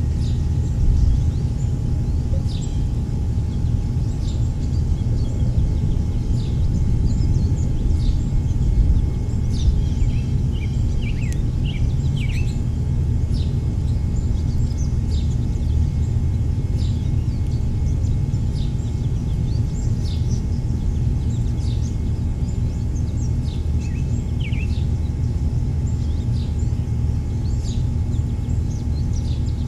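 Small birds chirping in short, scattered calls over a steady low rumble, with a faint steady hum.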